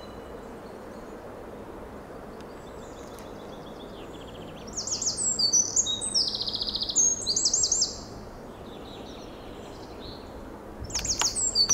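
A small songbird singing: rapid, high trilled phrases in two loud bursts, one about three seconds long in the middle and another starting near the end, over a faint steady hiss.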